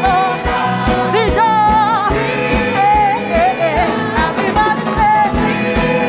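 Live gospel worship music: a singer's melodic lines with vibrato over a band with a steady kick-drum beat.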